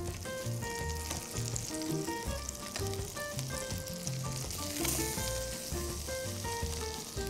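Potato and cheese patties sizzling in melted butter in a frying pan, with a steady hiss as more patties are laid in. A background music melody of short held notes plays underneath.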